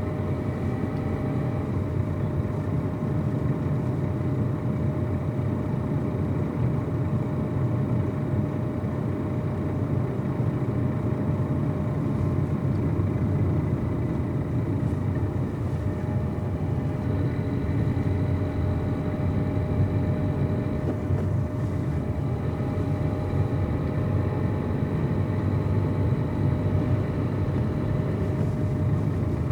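Car cabin noise while driving: a steady hum of engine and tyres on the road, with a faint steady whine above it.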